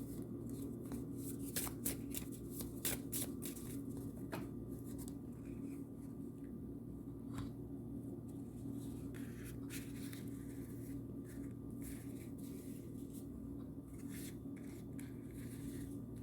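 Oracle cards being shuffled and handled by hand: short crisp card slaps and riffles in irregular bunches, over a steady low hum.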